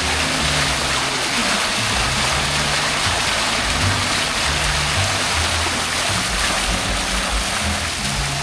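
Steady hiss of falling rain, with music playing underneath, its low notes changing about every half second.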